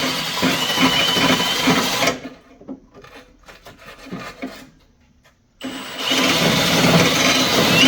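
Small handheld power tool roughing up bare metal at a ground-cable contact point: it runs for about two seconds, stops for a few seconds with only a few light clicks, then starts again with a steady high whine.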